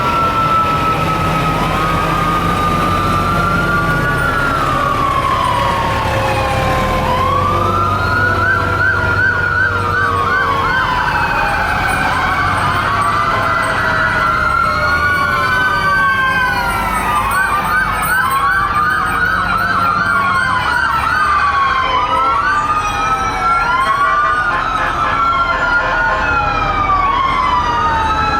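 Several fire truck sirens sounding at once: overlapping wails rising and falling, with stretches of fast yelp, over a steady low engine rumble. A long, slowly falling tone is heard about a second in.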